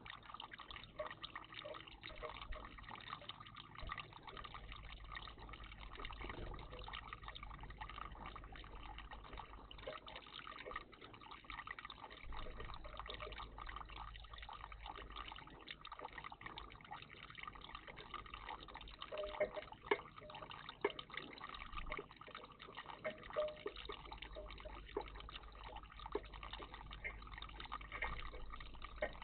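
Water in a garden bird bath trickling and dripping steadily, with a few sharper splashes and clicks about two-thirds of the way through.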